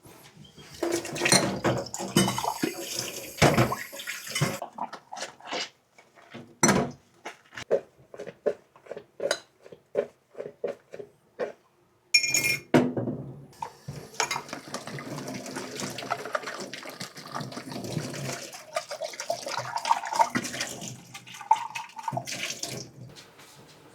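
Washing up at a kitchen sink: dishes and utensils clattering, then a run of short, even knocks or strokes about two a second. After a sharp clatter about halfway through, the tap runs steadily for several seconds.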